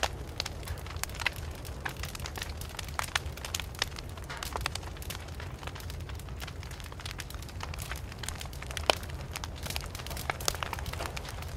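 Campfire crackling: dense, irregular sharp pops and snaps over a steady low rumble, with one louder pop about nine seconds in.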